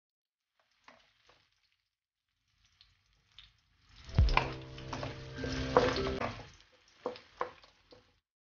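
Sliced sausage frying in oil in a metal wok, stirred with a wooden spatula: sizzling with knocks and scrapes of the spatula against the pan. The sound is loudest for a couple of seconds around the middle, with a few light taps near the end.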